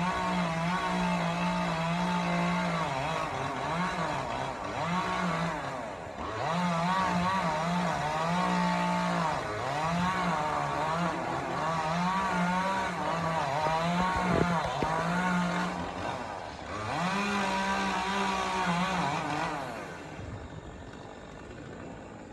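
Chainsaw held at high revs in long bursts, dropping back briefly between them, and easing off near the end.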